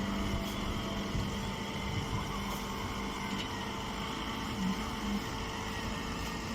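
Baling machine running: a steady mechanical hum with a few held tones.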